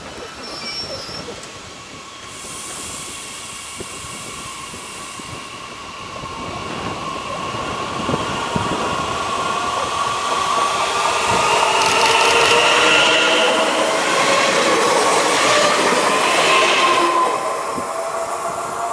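TER passenger train approaching and running past, growing steadily louder to a peak, then dropping off sharply as it goes by. Whining tones fall in pitch over the passing.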